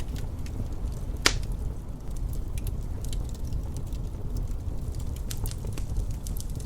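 Wood fire crackling: scattered sharp pops and snaps, one loud pop about a second in, over a steady low rumble.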